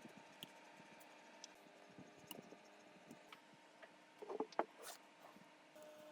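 Quiet workshop handling sounds: scattered light clicks and taps, with a short cluster of louder knocks about four seconds in, over a faint steady hum.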